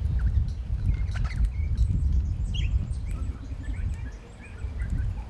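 Low, uneven rumble of wind on the microphone, with scattered short bird chirps and calls over it.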